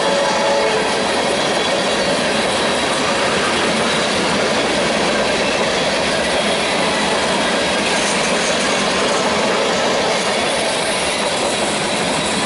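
Freight train cars rolling past, a steady loud rumble and rattle of steel wheels on the rails. There is a brief thin squeal at the start.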